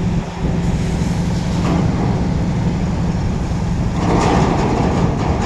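Heavy diesel engine of a container truck running steadily with a low hum; about four seconds in, a louder rattling mechanical noise joins it.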